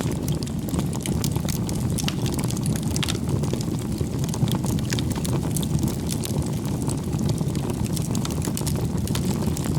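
Bonfire of burning firewood: a steady low rumble of flames with frequent small sharp crackles and pops from the wood throughout.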